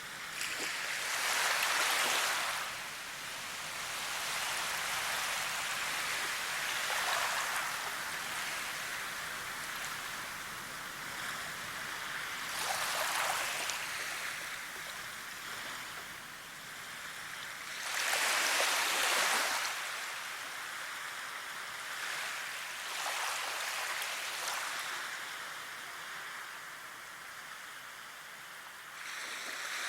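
Rushing water: a steady hiss that swells louder about every five seconds, most strongly near the start and a little past halfway.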